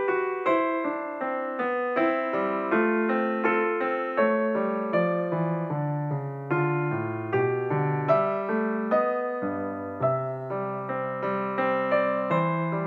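Background piano music: a run of struck notes fading one into the next over low chords.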